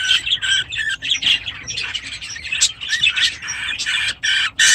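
Budgerigars chirping and chattering nonstop, many short high chirps overlapping, with a louder burst near the end.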